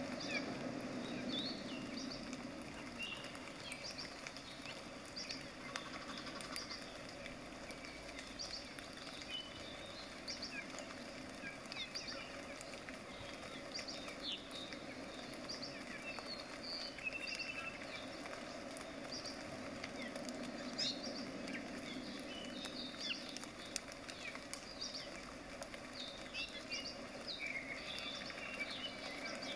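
Many short, high bird-like chirps scattered throughout, over a steady low background hum.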